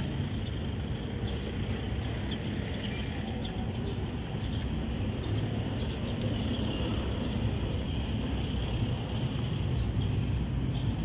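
Steady ambient background noise: a low rumble with a haze of indistinct activity, dotted with faint short clicks.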